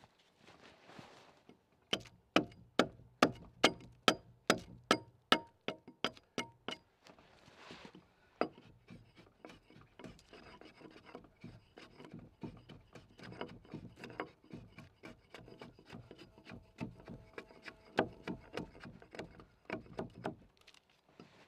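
Axe blows into a timber log: a run of sharp, evenly spaced chops about two to three a second, then a longer spell of lighter, quicker strokes as the cut is pared down.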